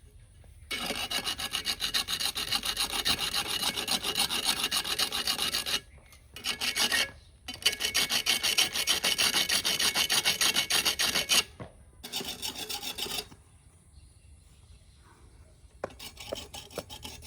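Rapid, rhythmic scraping or rasping strokes, in several runs of a few seconds each with short pauses between.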